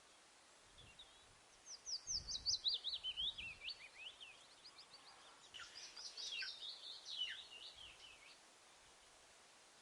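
Kingfisher calling in two rapid trills of sharp high notes, each falling in pitch, the first about two seconds in and louder, the second a little after halfway.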